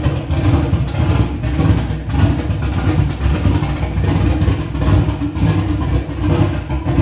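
A car engine running loudly, its level rising and falling unevenly.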